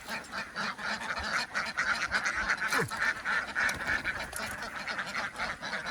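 A large flock of domestic ducks quacking continuously, many overlapping calls forming a dense chatter.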